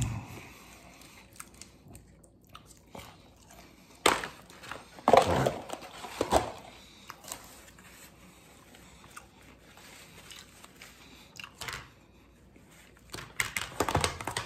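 A man biting and chewing food close to the microphone, with scattered sharp clicks and knocks from handling the food; the loudest come about four to six seconds in and again near the end.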